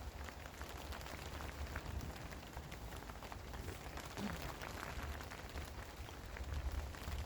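Steady rain falling, with many separate drops ticking close by over a low rumble.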